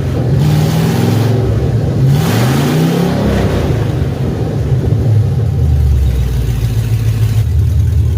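2003 GMC Yukon Denali's 6.0-litre V8 revved twice in quick blips, then settling back to a steady idle.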